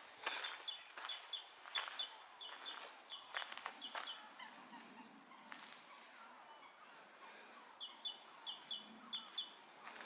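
A songbird singing a fast run of repeated high two-note phrases, about two a second, for some four seconds. A shorter run of the same phrase follows near the end.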